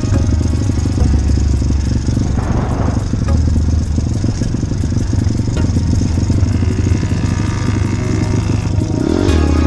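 Small motorbike engine running as it is ridden, its pitch shifting up and down with the throttle.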